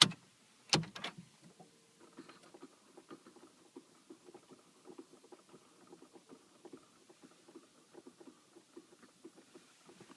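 Strange irregular ticking and crackling from a Volkswagen Passat B6 1.9 TDI with the ignition on, several light clicks a second, not from the ventilation fan, which is switched off. A few louder sharp clicks come in the first second.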